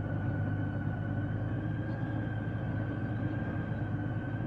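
Honda Goldwing's flat-six engine running steadily at low revs, with a faint steady whine above it.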